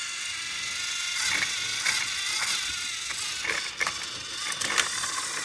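Battery-powered toy train motors whirring with a steady high whine, with plastic gears and wheels clicking and rattling from about a second in.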